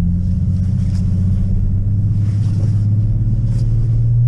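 Car engine running under load, heard from inside the cabin: a steady low drone whose pitch creeps slowly upward as the car accelerates.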